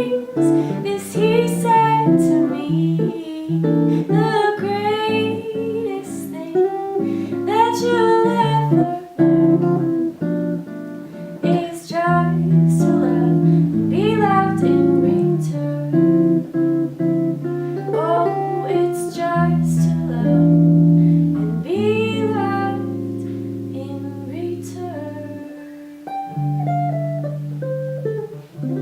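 A woman singing a jazz ballad over guitar, with the guitar playing sustained chords beneath the voice.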